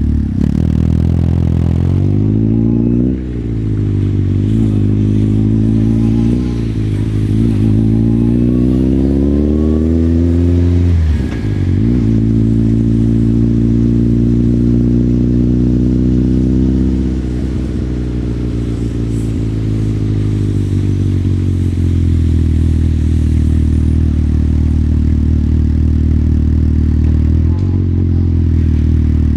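Motorcycle engine on the move, pulling up through the gears with its pitch rising in several quick steps over the first ten seconds. The revs drop sharply about eleven seconds in, then hold steady at a cruise. They ease off again a few seconds later and settle into a lower steady run.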